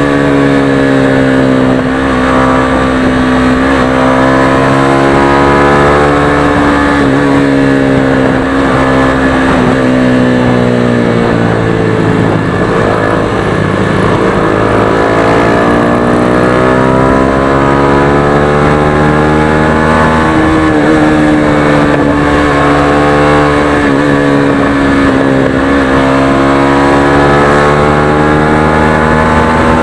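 Motorstar Xplorer Z200S motorcycle engine and stock exhaust running under way. The engine note eases down slowly over the first twelve seconds, climbs again as the bike accelerates about halfway through, eases off, then climbs once more near the end.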